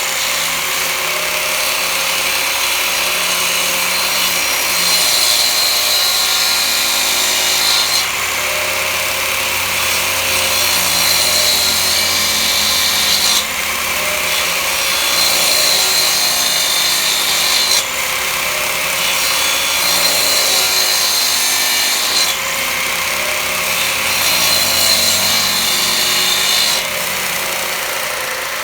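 A handheld electric power tool running while it works on wood, in repeated passes that shift in tone every four to five seconds.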